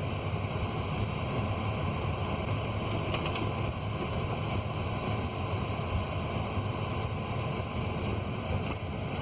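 A vehicle engine running steadily, a low hum under an even rushing noise. A faint steady high tone comes in about three seconds in and stops near the end.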